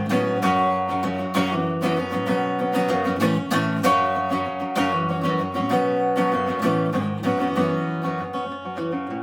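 Acoustic guitar strummed in a steady rhythm, the instrumental opening of a folk song; toward the end the strumming eases and the chords are left to ring.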